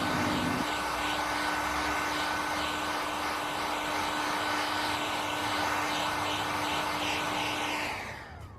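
Electric heat gun blowing steadily with a constant hum and whine, heating the car's paint over a bird-dropping mark. Near the end it is switched off and its fan winds down, the pitch falling away.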